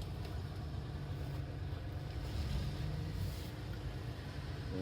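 Car driving slowly along a gravel road, heard from inside the cabin: a steady low rumble of engine and tyres on gravel, with a brief rise in hiss about three seconds in.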